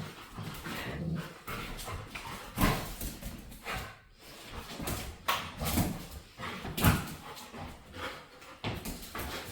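A playful pet dog making a string of short vocal noises, the loudest about three seconds in and again near seven seconds.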